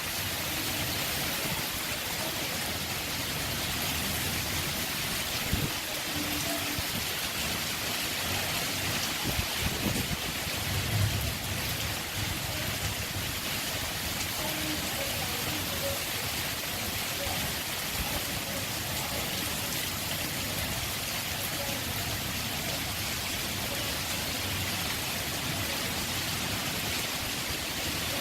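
Heavy rain falling steadily, an even hiss throughout, with a few brief low thumps about a third of the way in.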